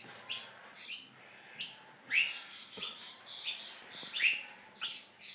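Birds chirping repeatedly, a short high-pitched chirp about twice a second, some sweeping quickly in pitch.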